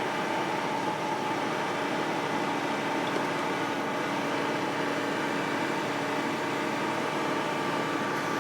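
Zoomlion 37 m truck-mounted concrete pump running steadily: a continuous mechanical hum with several held tones and no breaks.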